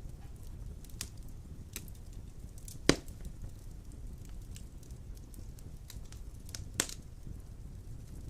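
Wood fire burning in a fireplace: a steady low rumble of flames with scattered crackles and sharp pops, the loudest about three seconds in and another near seven seconds.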